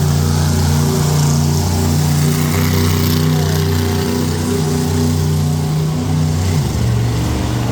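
Monster truck engine running loudly at a steady pitch, then dropping to a lower pitch about six and a half seconds in.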